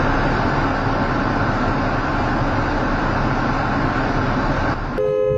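Steady road and engine noise of a moving vehicle, heavy in the low end. About five seconds in it cuts off abruptly and a steady, held tone takes over.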